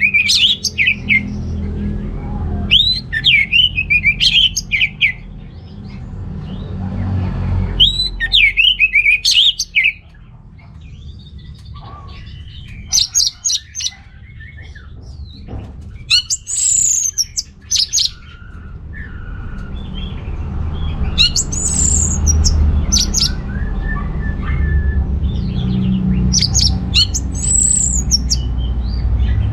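Orange-headed thrush singing: short phrases of fast, rising and falling whistles, each a second or two long, coming every few seconds, over a steady low rumble.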